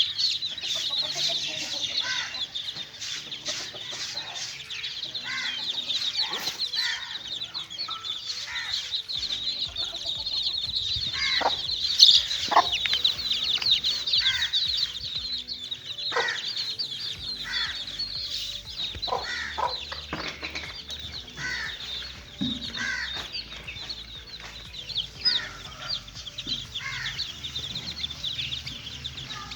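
A group of young chicks peeping continuously, many high-pitched chirps overlapping, with occasional lower, falling calls mixed in.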